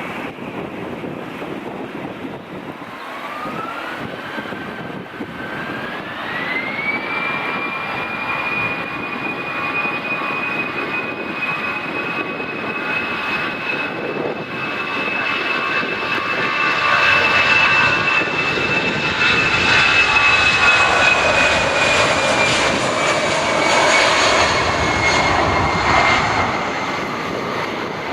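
Jet airliner's engines spooling up for takeoff: a whine rises in two steps, then holds as the engine noise grows louder, peaking past the midpoint, with the whine dropping slightly in pitch near the end as the aircraft passes.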